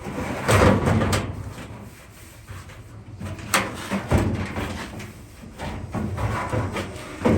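Handling noise from repair work on a dryer: irregular rubbing and scraping, with a sharp knock about three and a half seconds in and another a little after four seconds.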